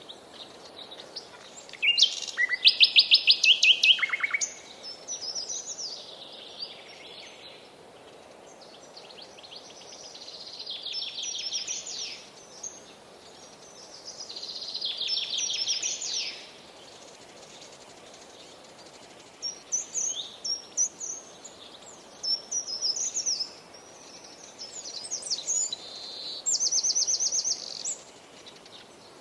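Songbirds singing in a forest: a loud trill of rapid notes about two seconds in, then further trilled phrases every few seconds, over a soft steady background hiss.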